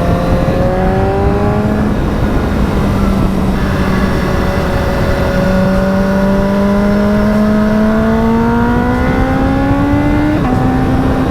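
BMW S1000RR's inline-four engine pulling hard through the gears, its pitch climbing steadily, with an upshift about two seconds in and another near the end. A steady rush of noise lies underneath.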